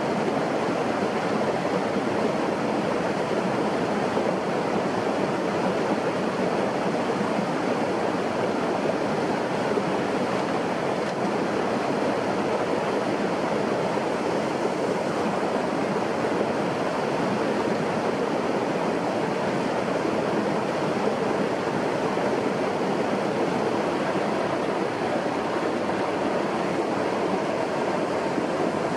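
Steady rushing of water, an even noise that holds at one level without a break.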